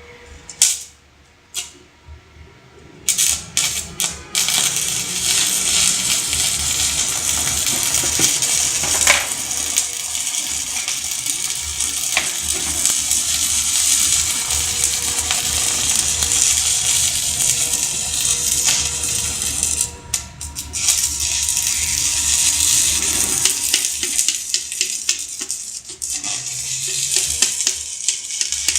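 Stick (arc) welding with a 3.2 mm electrode: a few short stutters as the arc is struck, then a steady crackling hiss of the burning rod, broken briefly about twenty seconds in.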